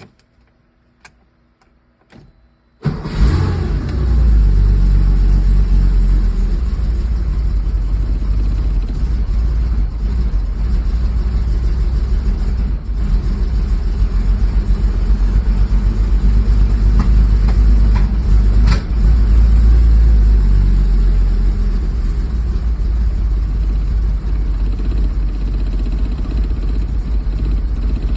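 Porsche 911SC air-cooled flat-six fires up suddenly about three seconds in and keeps running rough and uneven, a rough start the owner puts down to vacuum leaks. Two sharp pops stand out, around the middle and about two-thirds through.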